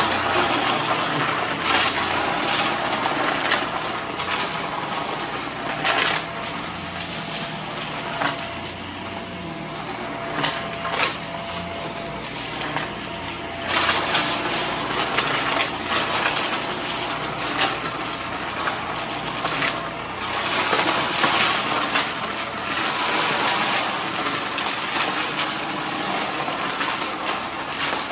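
Vacuum cleaner running as it sucks up a dry mess, with irregular crackling and rattling as debris is pulled into the nozzle and hose.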